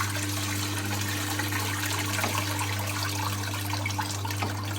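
1958 Hotpoint Empress washing machine's motor humming steadily while water splashes and trickles out of a towel being squeezed through its power wringer.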